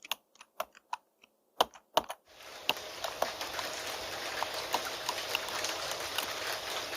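Computer keyboard typing: separate keystroke clicks with short gaps between them. About two seconds in, a steady rain sound starts abruptly and continues, with scattered drop-like clicks.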